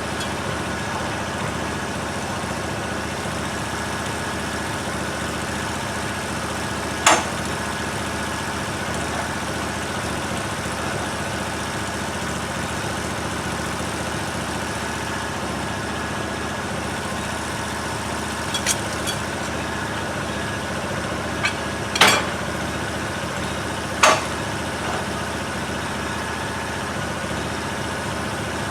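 An engine running steadily at idle, with a few sharp knocks or clicks scattered over it: one about seven seconds in, and a cluster around twenty to twenty-four seconds in.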